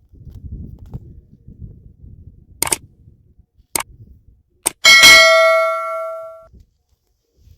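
Three sharp clicks, then a single loud metallic clang about five seconds in that rings with several clear tones and fades over about a second and a half, over soft low rustling.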